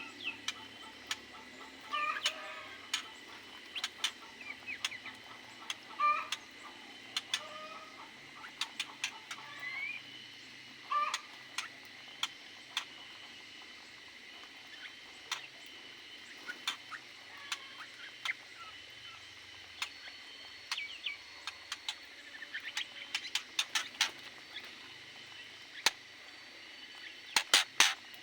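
Aviary birds, most likely chickens, giving short scattered clucking calls. Sharp clicks and taps run throughout, with a quick cluster of loud clicks near the end, over a faint steady high tone.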